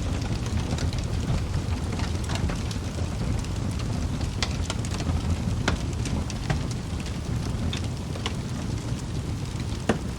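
Wood fire burning in a fireplace: a steady low rumble of the flames with irregular sharp crackles and pops from the logs, one of the loudest pops about halfway and another near the end.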